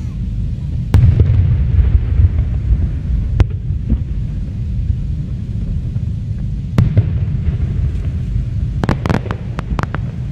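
Fireworks display: separate sharp bangs of aerial shells bursting about a second, three and a half and seven seconds in, then a rapid cluster of cracking reports near the end, over a steady low rumble.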